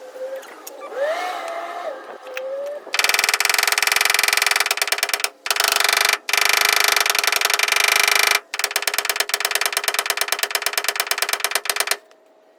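A power tool's very rapid, even rattling clatter in three runs, with short breaks between them, stopping suddenly near the end.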